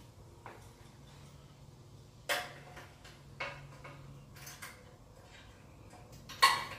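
Scattered metal clanks and clinks, about five in all, with the loudest near the end.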